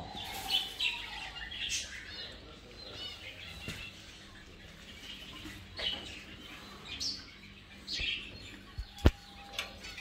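Small caged birds chirping over and over, with a few brief flutters of wings. A single sharp knock about nine seconds in is the loudest sound.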